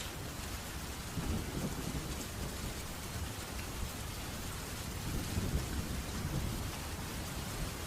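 Steady heavy rain with low, rolling thunder rumbling underneath, swelling about a second in and again past the middle.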